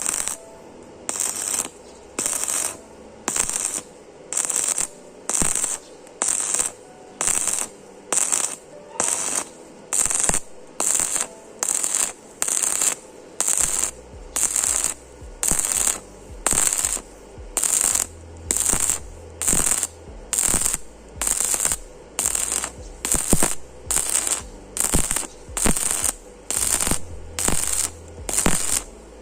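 Wire brush scrubbing back and forth over a fresh stick weld bead to clean off slag, in steady even strokes of about one and a half a second.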